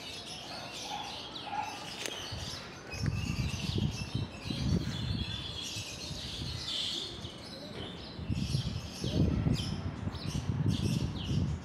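Small birds chirping and twittering, many short repeated chirps. Stretches of low rumble come in about three seconds in and again near the end, louder than the birdsong.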